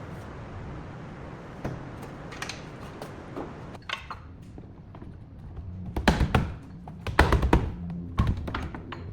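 Workshop work noise: a steady hiss with scattered light clicks, then two loud clusters of sharp knocks and rattles about six and seven seconds in, and one more knock near the end.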